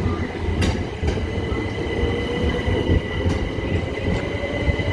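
Electric passenger train running past at the platform: a steady electric whine over a low rumble, with a few clicks from the wheels.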